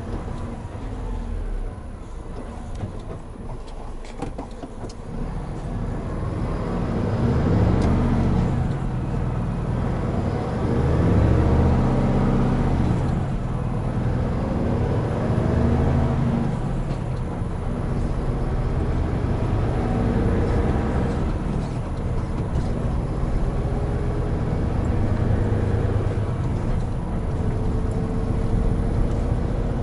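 Hino Profia heavy truck's diesel engine running on the road. Its pitch climbs and falls back several times as it pulls away and picks up speed, louder from about six seconds in.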